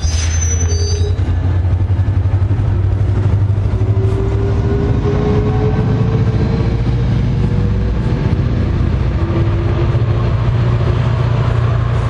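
Commuter train running with a loud, steady low rumble, a faint thin whine slowly rising in pitch through the middle.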